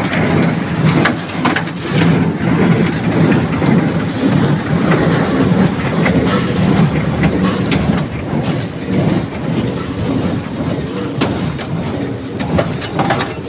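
Tractor-driven Shaktiman square baler running while baling sugarcane trash: a steady mechanical drone with irregular clicking and clatter throughout.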